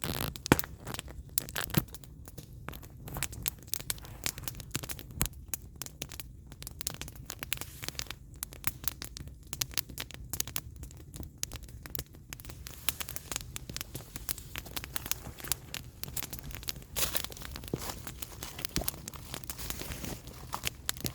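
Firewood burning in an open fire, crackling with irregular sharp pops and snaps over a low steady rumble.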